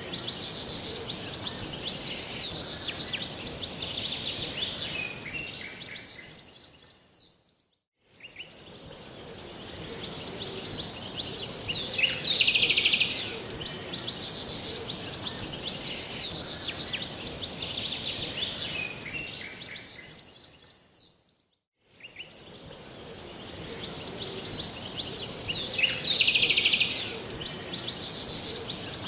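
Wild birds singing and chirping over a steady high-pitched hiss, with a loud burst of song twice, about halfway and near the end. The whole sound fades out to silence and back in twice, as a repeating loop.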